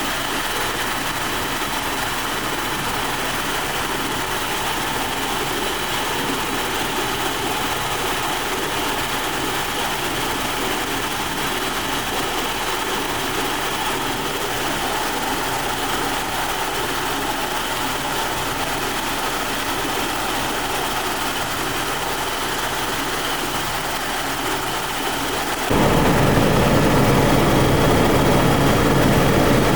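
Helicopter running steadily: constant engine and rotor noise with faint steady tones. About 26 s in it jumps suddenly louder, with a deeper rumble.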